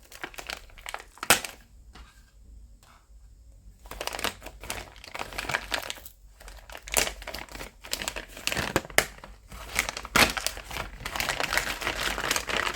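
Thin plastic parts bag crinkling and rustling as it is handled: a single sharp click about a second in, a lull, then near-continuous crinkling from about four seconds in.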